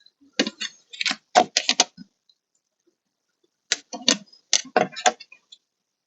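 Clusters of sharp clicks and knocks from hand tools working a plastic door-panel retaining clip, in two rapid bursts with a short pause between.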